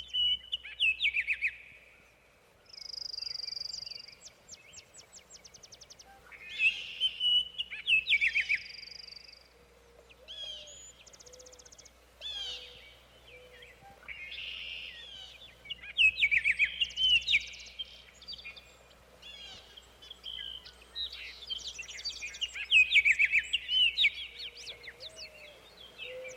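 Several songbirds singing over one another: quick repeated phrases that slide down in pitch, a buzzy held note, and very high rapid trills, coming in bursts with short gaps between them.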